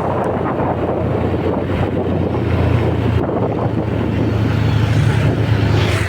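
Honda Beat scooter's small single-cylinder engine running steadily while riding, with wind rushing over the microphone. The engine hum grows a little louder and fuller about two and a half seconds in.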